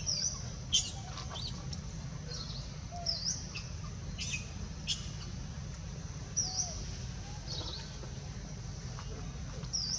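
Birds chirping: short, high calls repeating every second or so, with a few sharper chips, over a steady low rumble.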